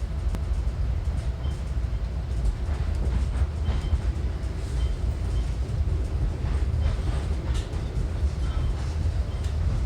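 Commuter train rolling past: a steady low rumble with faint clicks from the wheels.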